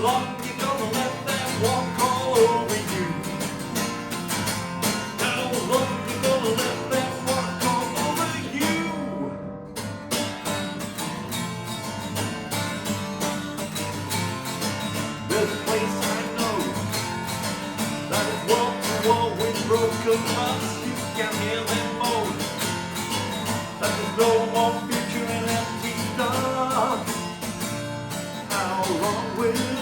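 Acoustic guitar played live with a man's singing voice at times. About nine seconds in, the sound briefly drops out in the upper range.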